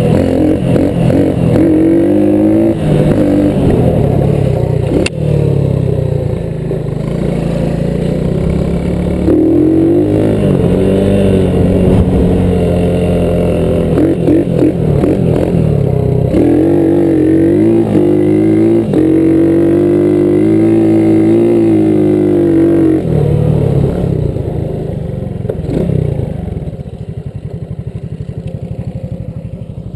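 Small single-cylinder four-stroke off-road engine revving hard through its gears, pitch climbing and dropping back at each shift, then easing off and quieter over the last several seconds.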